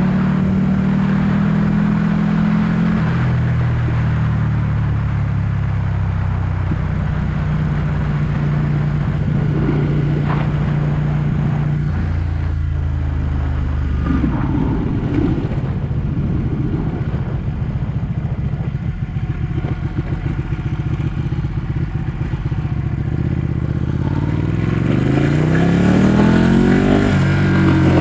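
Ducati 1199 S Panigale's Superquadro L-twin engine, heard from the rider's seat, with wind rush. It runs at a steady speed with a drop in pitch about three seconds in, then rolls off the throttle and crackles for several seconds, and revs up with a rising note near the end.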